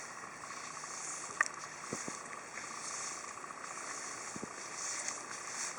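Outdoor ambience of insects chirring steadily, with a faint, fast-pulsing tone, and a single sharp click about a second and a half in.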